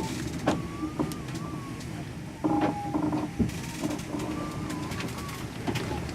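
Strong wind on a sailboat at sea: a steady rumble with scattered knocks, and thin whistling tones that waver up and down a few times.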